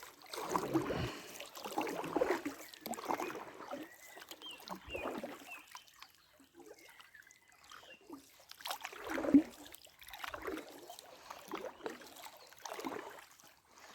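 Oars dipping and splashing as a small boat is rowed, with uneven strokes and one louder splash about nine seconds in.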